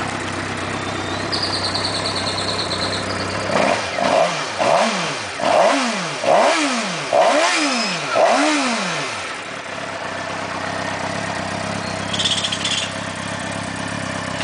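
2006 Suzuki GSX-R's inline-four engine idling, then blipped in a quick run of short revs, each rising and falling within about a second, before settling back to a steady idle.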